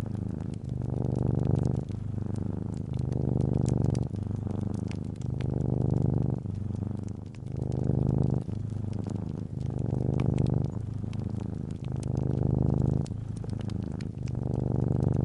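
Calico cat purring close up: a low rumble that swells and eases with each breath, about every second and a half. Scattered sharp crackles from a fireplace fire sound over it.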